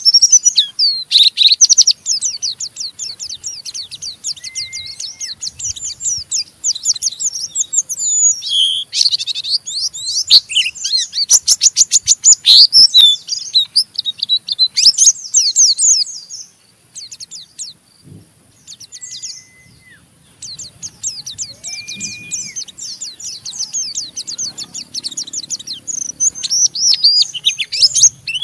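A white-eye (pleci) sings the fast, rough twittering 'ngeriwik' song: rapid trains of high chirps, with a few short plain whistled notes lower down. There is a brief lull a little past the middle.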